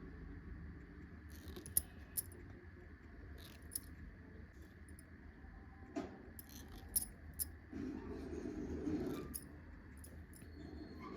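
Cotton thread in eyebrow threading snapping and rasping as it plucks out hairs: scattered sharp little clicks, irregularly spaced, over a low steady hum.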